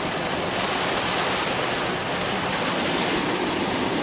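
Steady rushing water noise of a heavy thunderstorm downpour and running floodwater.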